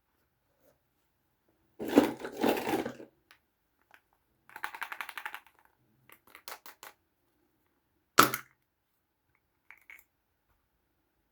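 Small plastic toy pieces being handled: a burst of crackling and rattling, then a quick run of light clicks, a few more clicks, and one sharp snap about eight seconds in.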